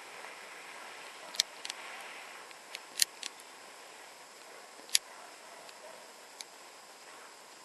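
Faint steady background with a handful of sharp, short clicks; the two loudest come about three and five seconds in.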